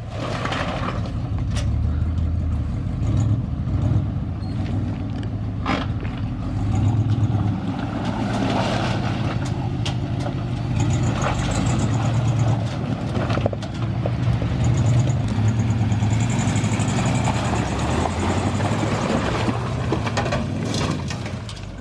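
Old Jeep truck's engine running hard while driving off-road, its low drone swelling and easing with the throttle, with rough rumble and a few sharp knocks over the terrain.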